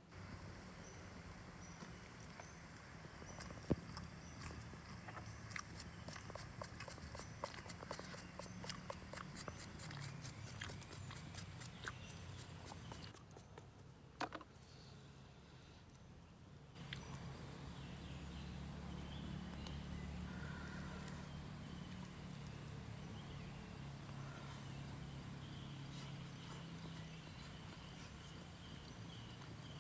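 Steady high-pitched insect chorus with a quick run of small clicks and crackles through the first half, and a single sharp knock early on. The chorus drops away for a few seconds around the middle, then returns.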